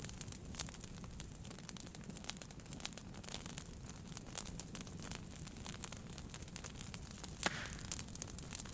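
Wood fire burning in a fireplace, with a steady low rumble and frequent small crackles and pops, one louder snap about seven and a half seconds in.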